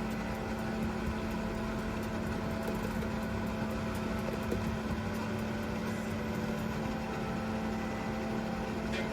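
Portable electric air conditioner running in cooling mode with its fan at the highest of three speeds: a steady hum with a constant low tone over an even rush of air.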